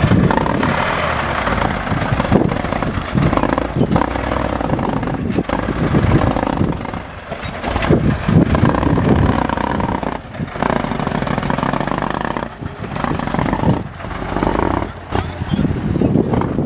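Tractor engine running hard under load, its loudness rising and falling every few seconds, as when it works to pull through mud.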